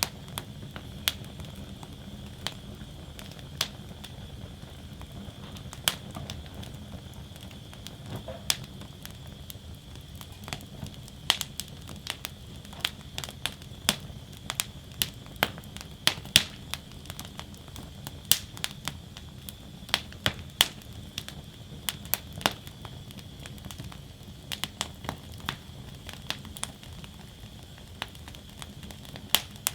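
Wood fire burning in a metal fire basket: a steady low rumble of flames with sharp, irregular crackles and pops of burning wood, coming thickest in the middle stretch.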